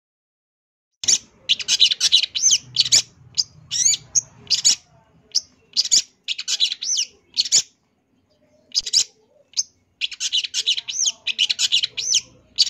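Long-tailed shrike (cendet) singing in rapid bursts of varied chirps and quick up-and-down whistled notes. The phrases are broken by short pauses.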